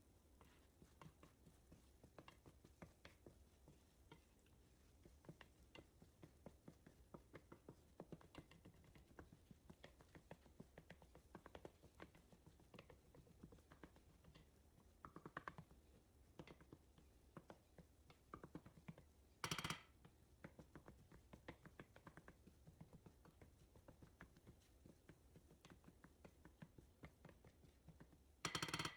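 Faint, frequent small clicks and taps of kitchen work, utensils and packaging being handled, with two louder brief clatters, one about two-thirds of the way in and one near the end.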